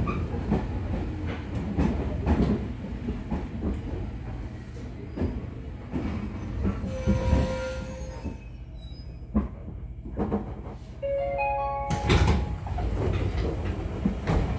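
Onboard running sound of a JR 205 series 3100 electric multiple unit's motor car slowing to a stop. Rail rumble and wheel knocks fade as it slows, with a brief squeal about halfway. A short run of rising tones comes just before the doors open with a loud burst of air near the end.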